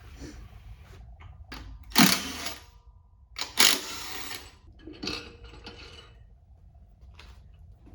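Metal engine parts and hand tools being handled on an engine block during a piston-to-valve clearance check. There are two louder metallic clatters about two and three and a half seconds in, and a few lighter knocks and clinks.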